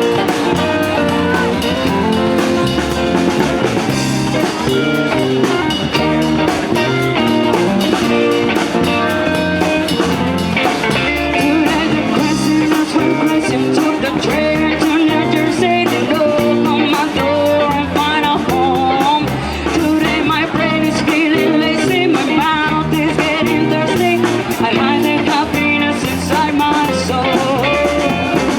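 Live band playing an original reggae-style song, with electric guitar and drum kit keeping a steady beat.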